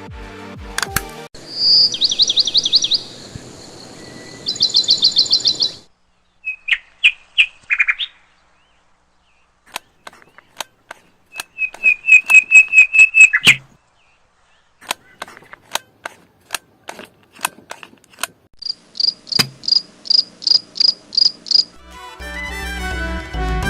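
High-pitched chirping trills in several short runs of rapid, evenly spaced pulses, with scattered sharp clicks between them.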